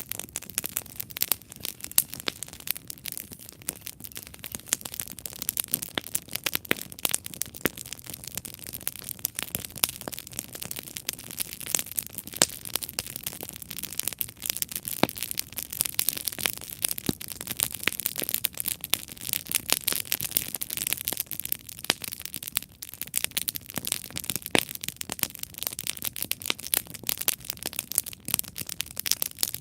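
Wood campfire burning, with dense, irregular crackles and pops over a steady hiss.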